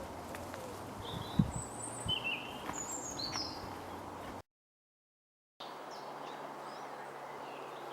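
Several birds chirping in short, falling calls over a steady background hiss, with a dull thump about one and a half seconds in. Midway the sound cuts out completely for about a second, then the hiss returns with fainter chirps and a low steady hum.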